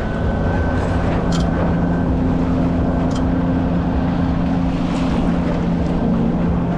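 Wind buffeting the microphone of a head-mounted camera on a sailing dinghy, with water rushing along the hull, over a steady low hum that runs throughout.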